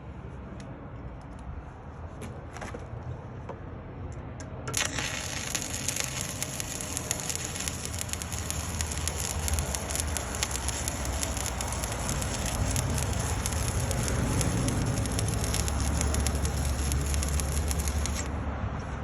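Stick (shielded metal arc) welding with a 1/8-inch 7018 rod at about 124 amps: the arc strikes about five seconds in, crackles and hisses steadily for some thirteen seconds, then stops. A low steady hum runs underneath.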